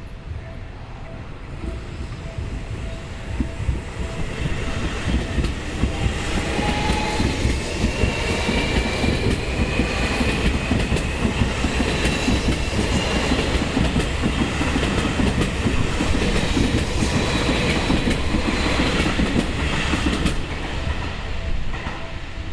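Seibu 40000-series electric train accelerating out of the station and passing close by, its traction motors giving a rising whine over the clatter of wheels on the rails; it builds up over the first few seconds and fades near the end. A railway crossing bell rings faintly at the start and the end.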